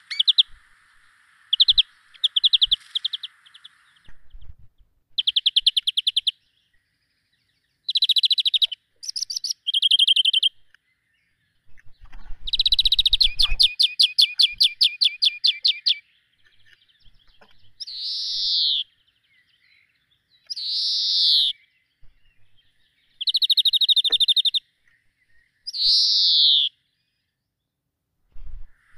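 Small birds singing: a series of short, rapid trilled phrases and chirps, with one longer fast trill about halfway through and a few short downward-sliding calls later on.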